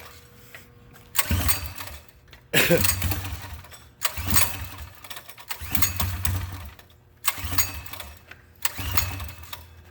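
Small gasoline engine on a mini bike being cranked over and over, firing briefly on each attempt about every second and a half and dying again without catching.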